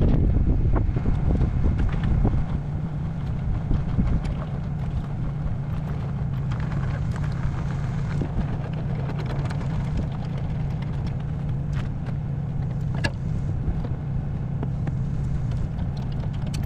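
An engine running steadily with a low hum, with wind buffeting the microphone over the first few seconds and a few sharp clicks later on.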